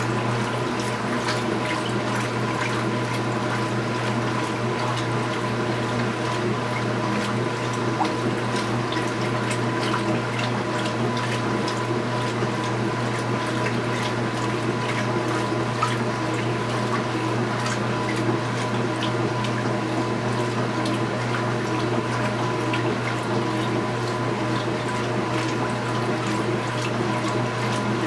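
Speed Queen 8 Series top-load washing machine running: a steady motor or pump hum with water rushing through it and faint scattered ticks.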